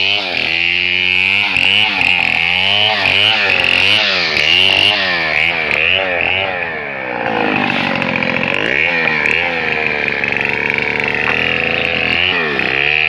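Chainsaw cutting through a bangkal log to saw it into lumber, its engine pitch rising and falling about twice a second, with a steadier stretch in the middle.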